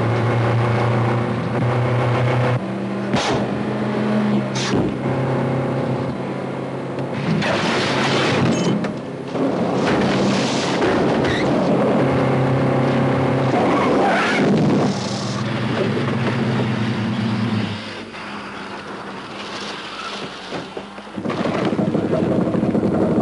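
Engines of a Renault 5 and a Ford Transit van running hard side by side, with several bursts of tyre squeal and skidding. The engine sound drops away about three-quarters of the way through, then comes back loud near the end.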